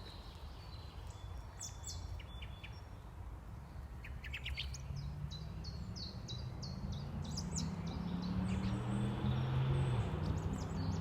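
Wild birds chirping and calling, with a run of quick repeated notes in the middle. A low droning hum builds through the second half and is loudest near the end.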